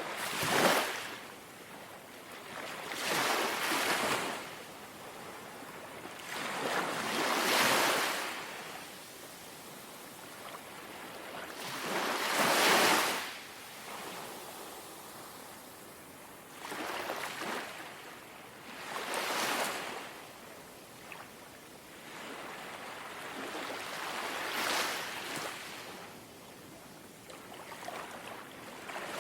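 Small, gentle sea waves lapping on the shore, each one swelling to a soft wash and fading, about every three to five seconds.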